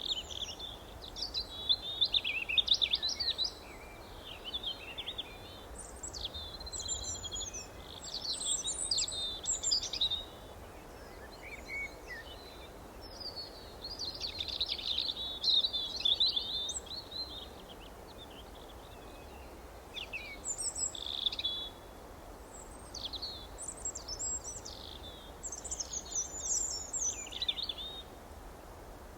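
Songbirds chirping and twittering in bursts of rapid high-pitched phrases a second or two long, with short pauses between them, over a steady low background hiss.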